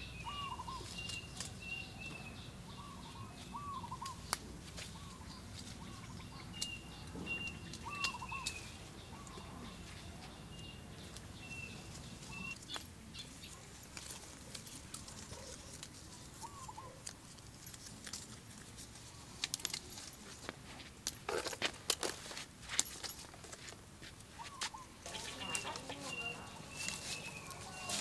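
Birds calling: a repeated short high chirp and brief lower calls that rise and fall. Scattered sharp clicks and knocks run through it, with a cluster of them about twenty seconds in.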